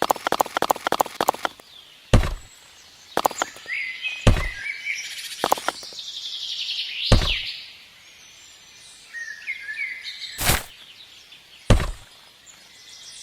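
About six separate knocks or thuds spread unevenly through a quiet stretch, with birds chirping in the background.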